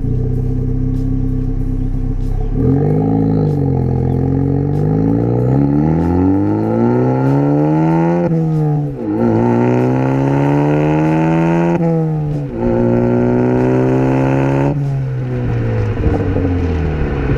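Ford Focus ST's turbocharged 2.0-litre four-cylinder through a Borla cat-back exhaust, accelerating through the gears. The engine note climbs, drops sharply at an upshift, climbs again and drops at a second upshift, holds steady, then falls away as the car eases off. It has a smooth drone rather than a loud one.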